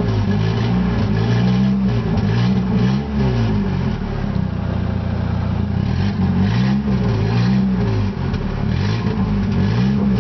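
1992 Honda Accord's 2.2-litre four-cylinder running with no exhaust system fitted, its engine pitch rising and falling repeatedly as it is revved and let back down.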